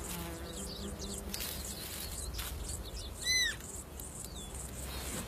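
Faint birdsong chirping in a meadow, with one louder, short, high arched call about three seconds in.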